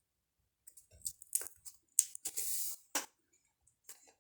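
Handling of EVA foam craft pieces on a tabletop: several small clicks and taps, with a short rustle about halfway through.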